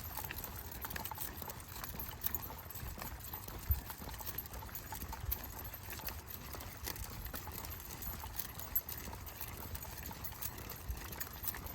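Footsteps on a dirt trail while walking, an uneven run of small crunches and soft low thumps.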